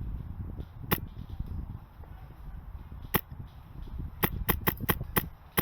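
Airsoft gun shots, sharp snapping clicks: two single shots about two seconds apart, then a quick string of about six shots roughly a quarter-second apart near the end, over a low rumble.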